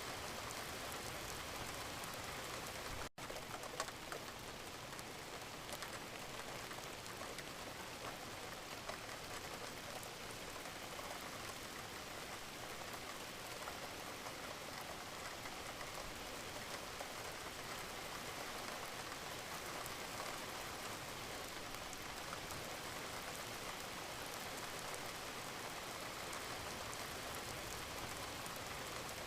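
Gentle rain falling steadily: a continuous hiss with faint ticks of single drops. The sound drops out for a split second about three seconds in.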